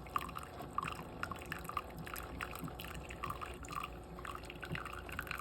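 Keurig K-Café coffee maker dispensing hot water into a cup during a plain-water cleaning run: irregular drips and splashes over a low steady hum.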